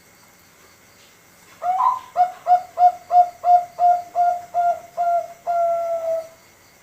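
A young male Bangkok-line zebra dove (perkutut) sings one competition-style cooing phrase: an opening note, then about nine short evenly spaced coos, ending on one long drawn-out note.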